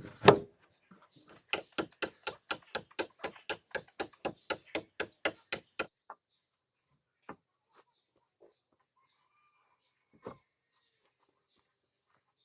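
Hammering on wooden planks: one heavy blow, then a quick, even run of about twenty strikes, roughly four or five a second, followed by a few scattered knocks.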